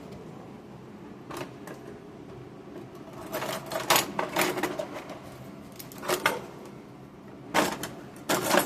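A bag of dry egg noodles rustling and crinkling as the noodles are shaken out into a pan of boiling water, in several rattly bursts.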